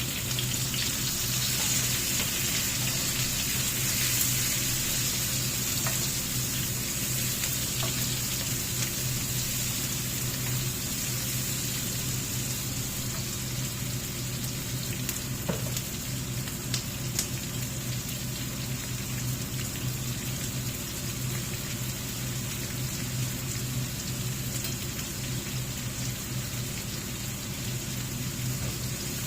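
Steady hissing and crackling of food cooking on the stove, with a steady low hum underneath and a few faint clicks.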